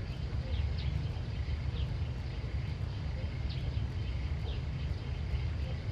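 Outdoor ambience: small birds giving short, falling chirps every half second or so over a steady low rumble.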